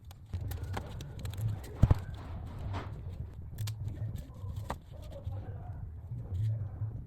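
Hand handling of small parts: a series of irregular clicks and knocks, the loudest about two seconds in, over a low uneven rumble.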